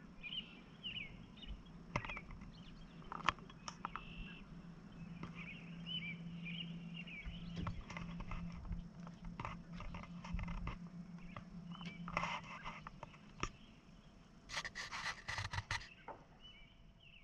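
Small birds chirping in short repeated calls, with a steady low hum for most of the first twelve seconds, scattered clicks, and a louder burst of scuffing about fourteen seconds in.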